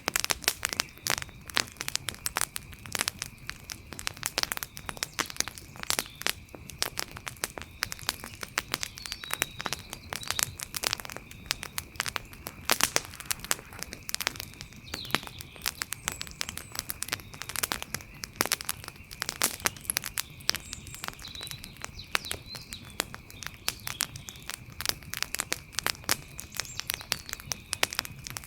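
Wood fire crackling with dense, irregular pops and snaps. A faint steady high-pitched tone runs underneath.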